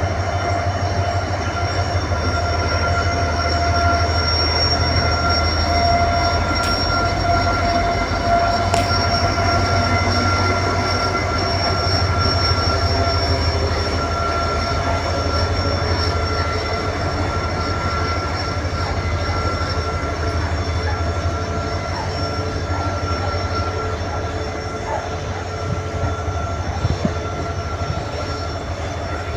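EMD WDG4 diesel locomotive humming steadily, its 16-cylinder two-stroke engine giving a deep, even drone with steady whining tones above it, easing slightly in the last third.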